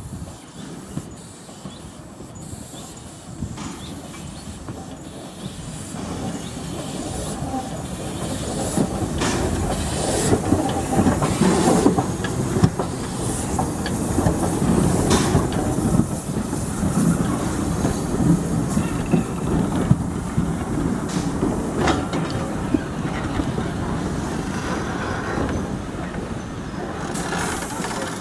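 Steam-hauled passenger train, Ivatt Class 2MT tank engine and carriages, rolling past on the rails. It grows louder over the first ten seconds into a steady rumble with the clickety-clack of wheels over rail joints, then eases a little near the end.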